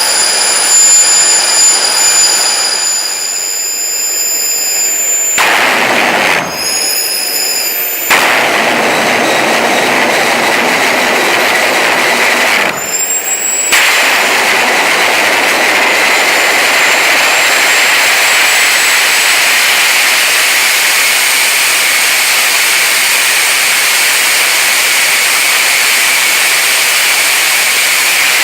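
Homemade turbojet built around a large turbocharger running at power: a loud, steady roar with a high turbine whine on top. The sound breaks off abruptly a few times in the first half, then runs steadily.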